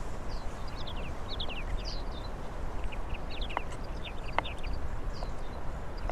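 Small birds chirping in quick, short falling notes over a steady low rumble, with two sharp clicks around the middle.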